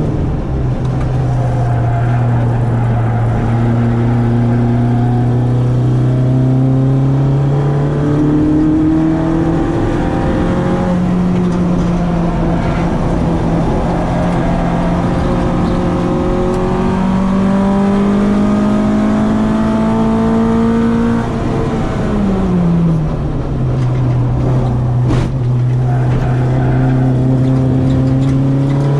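Citroën AX 8-valve four-cylinder engine on twin Weber 40 carburettors running hard on track, its revs climbing and falling through gear changes. About two-thirds of the way through the revs drop sharply, then the engine pulls steadily again.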